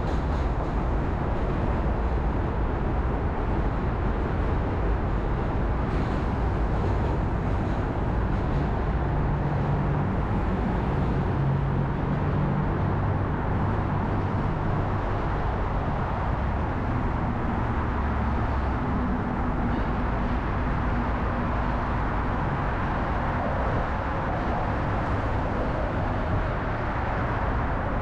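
Steady city road traffic heard from a bicycle: a constant rumble with the hum of passing motor vehicles coming and going.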